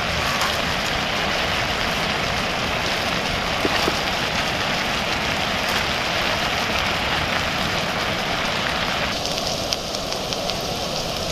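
Scallops and king oyster mushroom slices sizzling in olive oil on a griddle pan: a steady hiss sprinkled with small pops, which shifts slightly in tone about nine seconds in.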